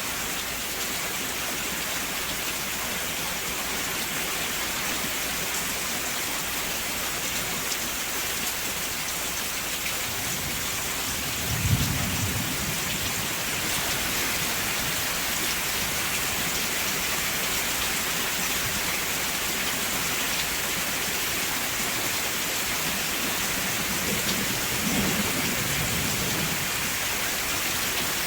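Steady rainfall with two low rumbles of thunder, a stronger one about twelve seconds in and a fainter one near the end.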